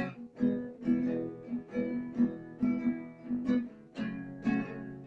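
Acoustic guitar strumming chords in a steady rhythm during an instrumental break in a song.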